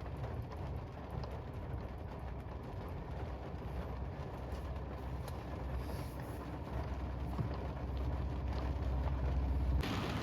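Steady low rumble of a car, building slightly in the second half. Just before the end it switches abruptly to louder, hissing rain.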